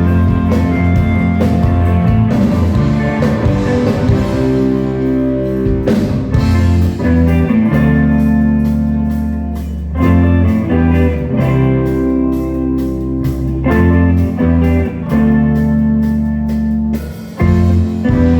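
Rock band playing live, guitar-led, over sustained bass notes and chords with regular sharp percussive hits.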